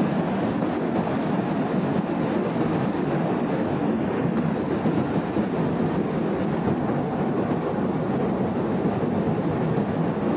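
Steady, unbroken rumble of a landslide: a mass of earth and debris sliding.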